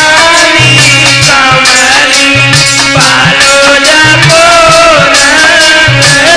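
Indian folk music in a malhar song: a wavering, gliding melody over regular low drum strokes, with no words sung.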